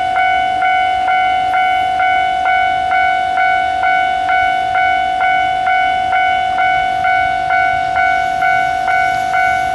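Electronic railway level-crossing warning bell ringing steadily at a bit over two strikes a second over a constant tone, warning that a train is approaching.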